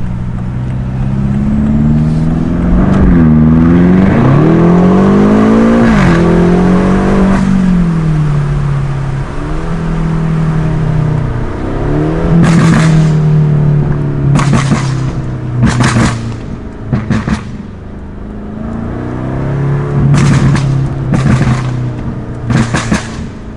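BMW F90 M5's twin-turbo V8 through a custom cat-back exhaust, pulling hard with the revs climbing several times. When the driver lifts off, the exhaust gives loud pops and crackles, in clusters about halfway through and again near the end.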